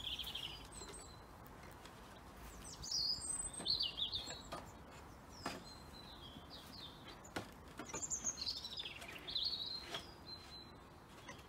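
Small garden birds chirping and calling in several short bursts, with a few faint sharp clicks in between.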